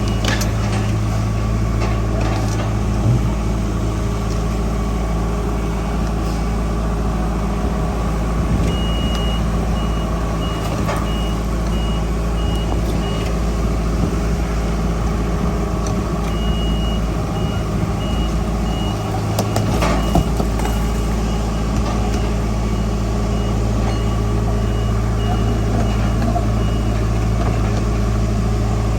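Heavy diesel earthmoving machinery running steadily, with a reversing alarm beeping in two spells, from about nine seconds in and again from about sixteen seconds in.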